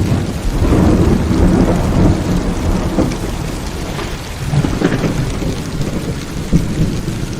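Heavy rain falling steadily with deep rolling thunder rumbling through it, easing slightly about halfway through.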